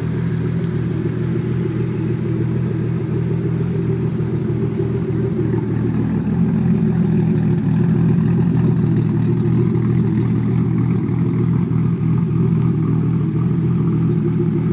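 1993 Toyota Supra Turbo's inline-six, warmed up, idling steadily. It grows a little louder over the first several seconds, heard from close to the exhaust tip.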